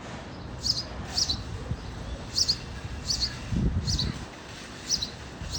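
A sparrow giving short, sharp chirps, about seven of them at irregular intervals of half a second to a second. A brief low rumble sounds under them about four seconds in.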